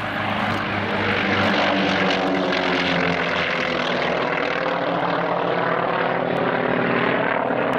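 Propeller airplane flying close, its engine running loud and steady. It grows louder over the first second, then holds.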